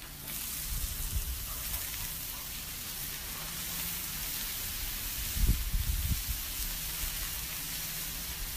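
Hot dogs, brats and hot links sizzling on a hot Blackstone flat-top griddle, a steady hiss, with the hot dogs freshly laid down and steaming. A few low rumbles come about five seconds in.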